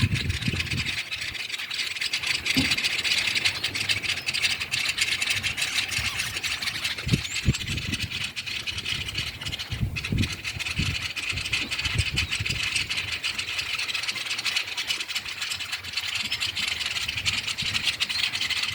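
A flock of many small birds chattering and calling noisily together in a tree, making a dense, continuous din, with occasional low thumps.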